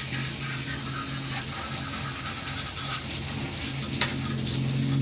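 Water spraying onto a window air conditioner with a steady hiss over a steady low hum, and a single sharp click about four seconds in.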